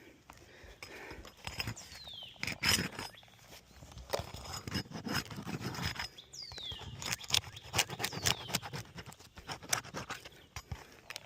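Hand work on asphalt roof shingles: irregular scraping, knocks and clicks, with a short squeak falling in pitch three times.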